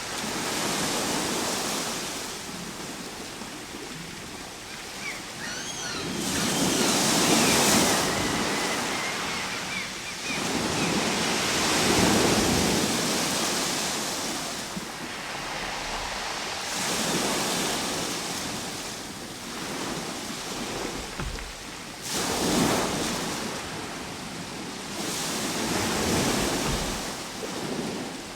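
Ocean waves breaking and washing on the shore: a rushing surf that swells and falls back about every five seconds. A few faint high chirps come about five seconds in.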